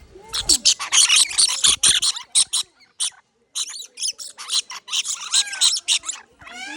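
A flock of lorikeets screeching in rapid runs of short, shrill calls, with a brief pause about three seconds in.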